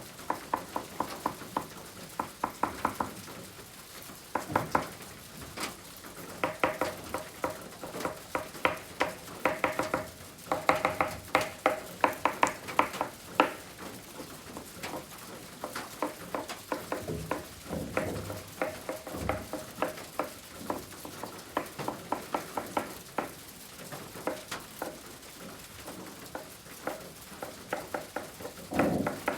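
Oil pastel stick scratching across kraft paper in quick, short strokes, several a second, in runs with brief pauses between.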